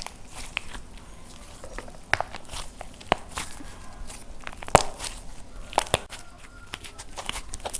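Dried plaster clay being cracked and crumbled by hand: irregular sharp crunches, crackles and pops, the loudest about two-thirds of the way through.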